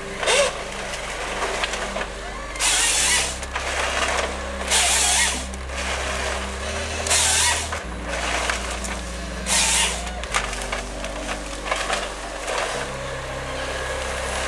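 Heavy machinery running with a steady low drone that shifts pitch every few seconds, and short bursts of harsh noise, like hissing or grinding, about every two seconds.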